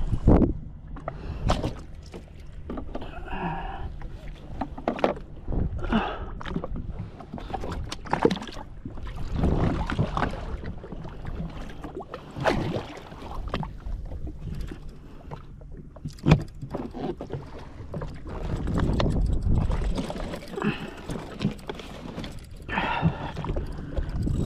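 Water slapping and splashing against the hull of a jet ski sitting on the sea, in irregular surges with scattered knocks.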